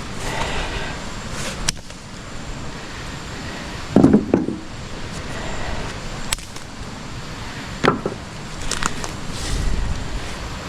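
Knocks and clunks of wet firewood sticks being handled and dropped, about five over the span, the loudest about four seconds in, over a steady background hiss.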